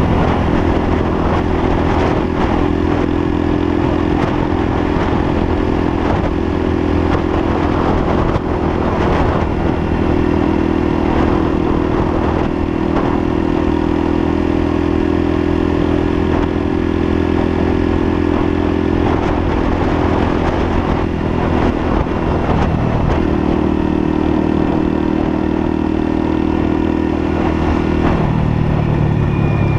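Lexmoto LSM 125's single-cylinder 125cc four-stroke engine running at steady cruising revs on the road, under a constant rush of noise. The engine note dips briefly about two-thirds of the way through, then the revs fall near the end as the bike slows.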